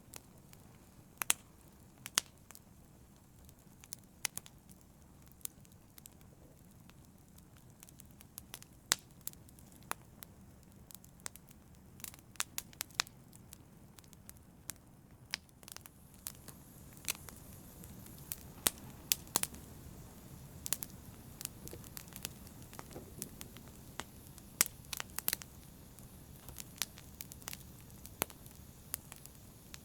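Wood fire in a fireplace crackling: a soft low rustle of flame with many sharp, irregular pops and snaps, a little busier in the second half.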